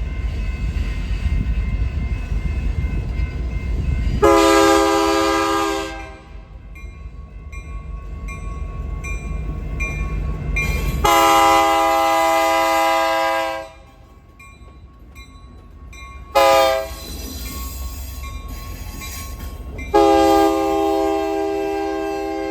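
Train rumbling, then the locomotive's multi-chime air horn sounding long, long, short, long: the standard signal for a road grade crossing.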